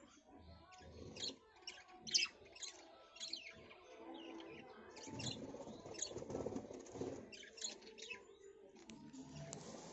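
Birds chirping: a scattered run of short, sharp, high calls, each dropping quickly in pitch, a few a second at times, over a low rumble in the middle of the stretch.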